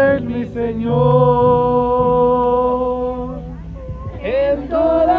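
Singing of a worship song, with a long held note in the middle.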